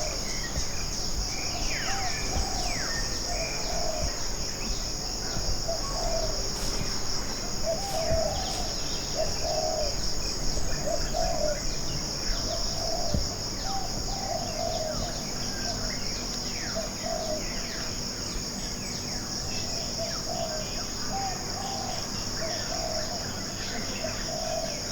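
Tropical forest ambience: a steady high-pitched insect buzz over short low calls repeating about once a second, with quick falling bird chirps scattered through.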